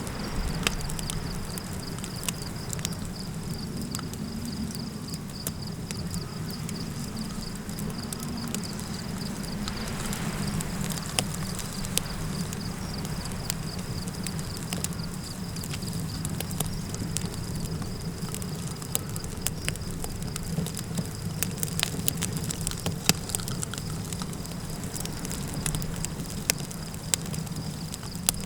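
Campfire crackling and popping, with sharp snaps scattered throughout, over a steady low wind rumble. A continuous high insect chirring runs beneath it.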